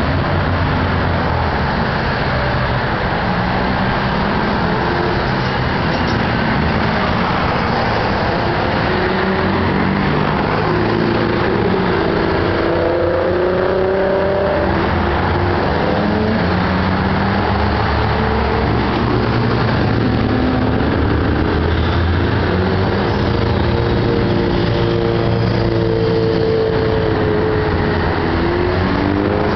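Car engines running and passing, their pitch rising and falling several times over a steady roar of traffic.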